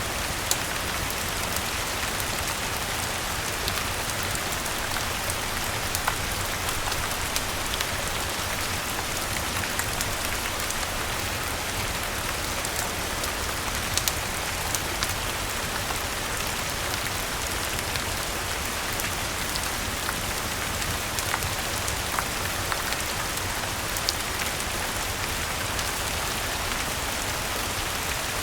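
Steady rain falling, an even hiss, mixed with the scattered sharp pops of a crackling wood fire in a fireplace.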